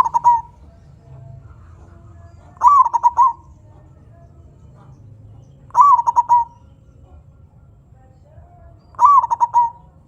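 Zebra dove (perkutut) cooing its song: four short phrases about three seconds apart, each a drawn-out opening note followed by a quick stuttering run of notes.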